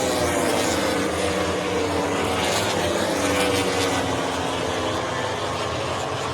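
MotoGP racing motorcycles' engines at high revs, several overlapping notes that slowly fall in pitch as the bikes pass.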